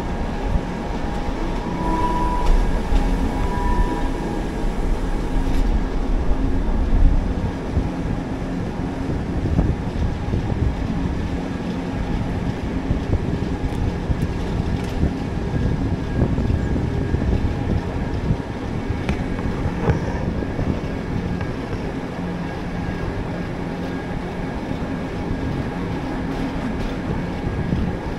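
Mountain railway train running downhill, with a steady rumble of wheels and running gear on the track. Faint steady whining tones sit over it, and brief higher squeals come a few seconds in.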